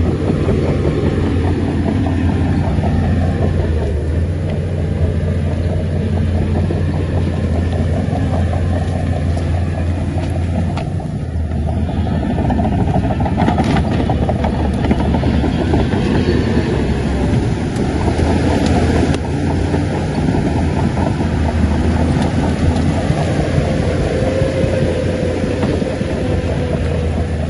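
Shantui crawler bulldozer's diesel engine running steadily, with a continuous clanking rattle of its steel tracks.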